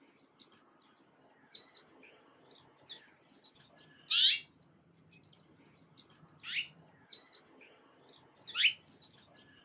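Birds chirping: three loud calls that sweep sharply down in pitch, about two seconds apart, among many softer short chirps.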